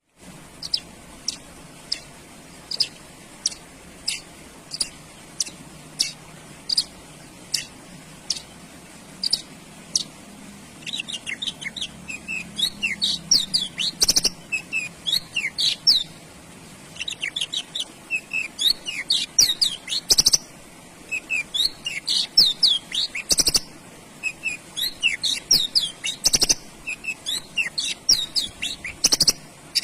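Male Javan bush lark (branjangan) singing: first a string of single sharp notes about one and a half per second, then, after about ten seconds, fast twittering song phrases broken by short pauses. A few sharp clicks sound during the song.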